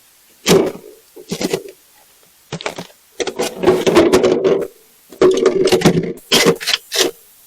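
Repeated short bursts of mechanical rattling and grinding, with clicks, as a seized part is worked at to free it. The bursts come in uneven runs of about half a second to a second and a half, with brief pauses between.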